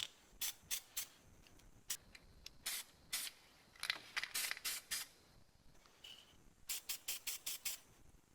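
Aerosol spray can of textured bumper paint being sprayed in many short hissing bursts with brief pauses between them.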